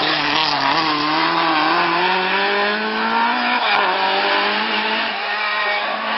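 Rally car engine at high revs, its pitch climbing and falling with throttle and gear changes, with a break and drop in pitch about three and a half seconds in.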